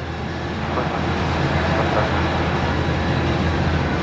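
Airliner engine noise: a steady low rumble that swells slightly over the first second and then holds.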